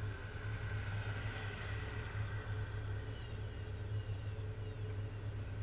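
Jeep engine idling, a steady low hum heard through the hood-mounted camera.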